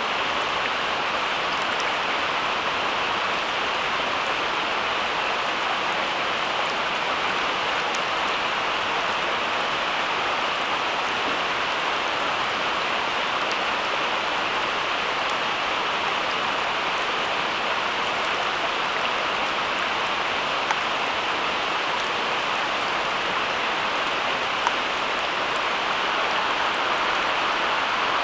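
Steady rain, an even hiss with a few faint drop ticks, and two small clicks in the last third.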